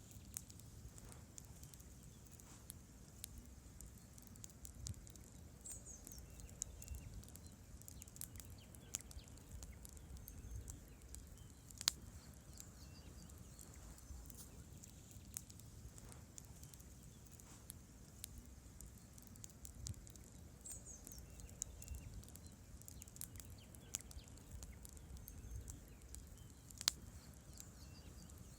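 Wood fire burning: a low rumble of flames with scattered sharp crackles and pops of the burning logs, the loudest pops about twelve seconds in and just before the end.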